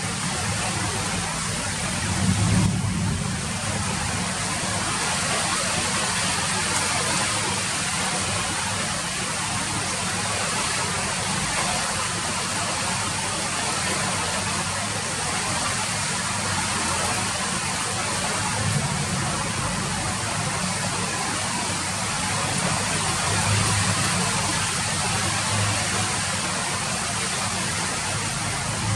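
Steady rain falling, an even hiss of drops, over a low rumble that swells now and then.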